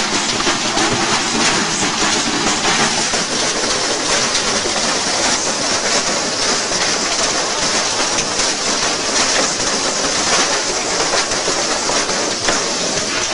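Washing machine drum turning with a brick inside: a loud, continuous clatter of rapid knocks and rattling.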